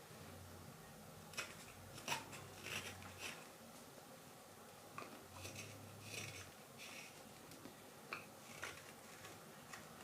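Carving knife shaving thin cuts from green wild cherry wood: faint, short slicing strokes and clicks, in two loose clusters with a few more near the end.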